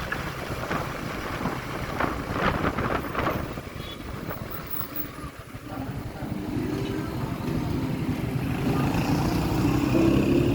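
Motorcycle engine running on the road with wind rumble on the microphone. The engine note grows steadily louder through the second half.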